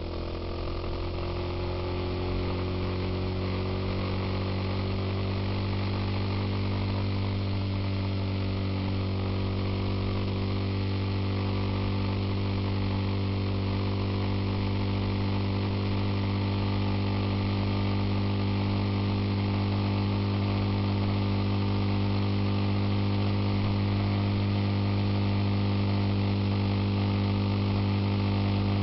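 Suzuki Intruder motorcycle engine running under way. Its pitch and loudness rise over the first few seconds as it speeds up, then it holds a steady cruising note.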